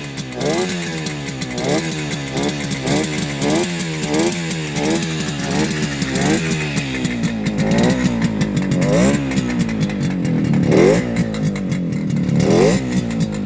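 1964 Yamaha YDS3's 250cc two-stroke parallel twin running cold on choke, its throttle blipped over and over so the revs rise and fall about every half second. In the second half it settles between fewer, more widely spaced blips.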